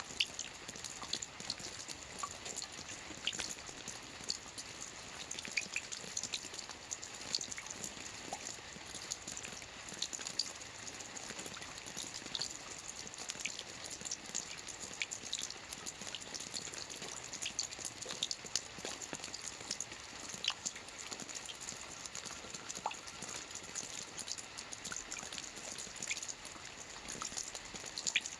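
Steady rain falling on a lake's surface: an even hiss with many separate drops heard as small, sharp ticks.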